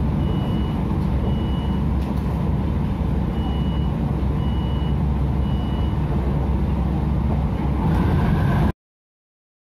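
MTR Tung Chung line train running at speed, heard from inside the carriage as a steady rumble, with two groups of three short high beeps. About 8 s in the rumble swells as the train runs into a tunnel, then the sound cuts off abruptly to silence.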